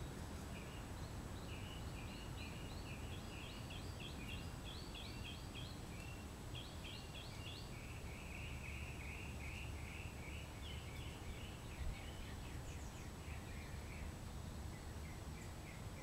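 Songbirds chirping and trilling in quick repeated phrases over a steady low background rumble, with a faint steady high whine. A single brief knock comes about twelve seconds in.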